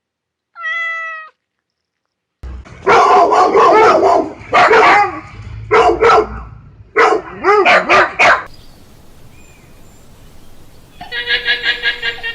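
A single short meow, then a run of loud animal calls in separate bursts, and near the end a fast quavering call.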